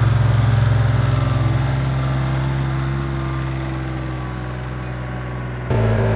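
Compact diesel tractor (Kioti CK3510 SE) running steadily while working the ground, slowly growing quieter, then abruptly louder again near the end.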